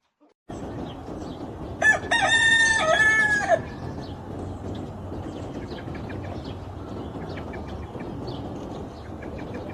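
A rooster crows once, a single cock-a-doodle-doo lasting just under two seconds, starting about two seconds in. It is heard over a steady farmyard background hiss.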